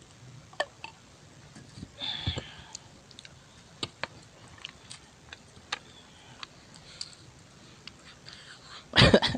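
Close-up mouth sounds of a person eating: soft chewing with scattered small wet clicks and brief hissy smacks, and a louder burst of sound near the end.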